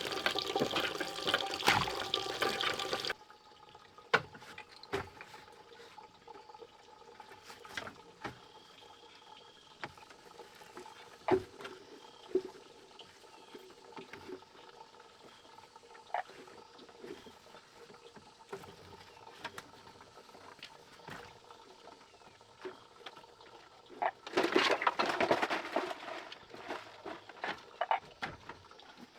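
Water pouring and splashing, loud at the start and again about 24 seconds in, with scattered knocks and taps in the quieter stretch between.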